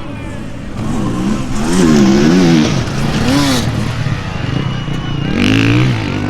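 Dirt bike engine revving, the throttle blipped up and down several times in quick succession, then running at a steadier low note.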